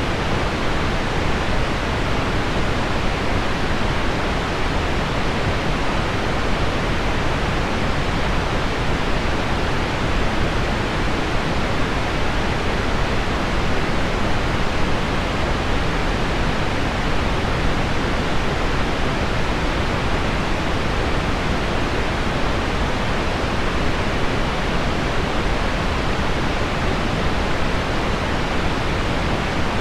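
Steady, deep pink noise blended with heavy rain on window glass, an even unbroken hiss with no individual drops standing out.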